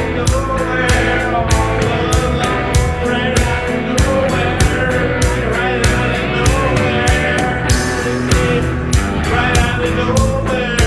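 Rock music with sung vocals, guitar and drums keeping a steady beat.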